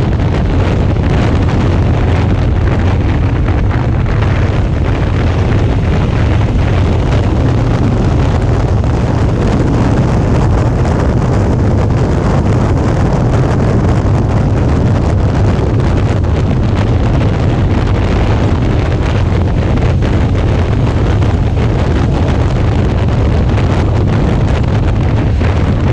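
Wind rushing over an action camera's microphone on a moving motorcycle, with the low, steady drone of a Suzuki V-Strom 650's V-twin engine at an even cruising speed underneath.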